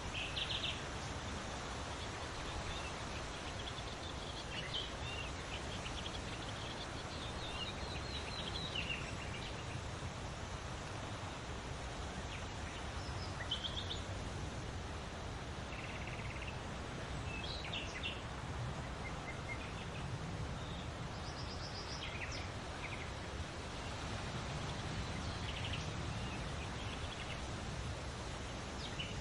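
Several birds chirping and trilling in short, scattered calls over a steady rustle of leaves in the wind.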